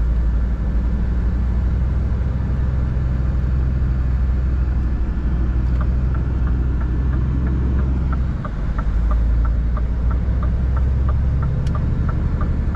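Cab interior of a Scania R 450 truck underway: the 13-litre inline-six diesel makes a steady low drone, dipping briefly about eight seconds in. From about six seconds in, the turn-signal indicator ticks about twice a second in an alternating tick-tock.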